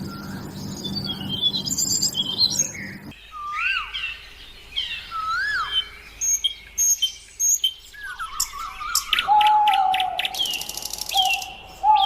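Several birds calling: short whistled notes that rise and fall, a quick rattling trill, and a long steady whistle starting about three-quarters of the way through. A low hum sits under the first few seconds and stops suddenly.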